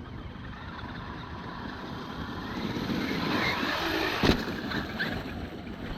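Traxxas X-Maxx electric RC monster truck running over icy, frozen ground: a rush of tyre and drivetrain noise that builds toward the middle, with one sharp knock about four seconds in.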